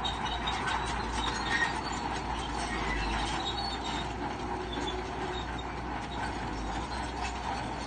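Crawler bulldozer working, its engine rumbling under a steady clatter and squeak of steel tracks running over the rollers.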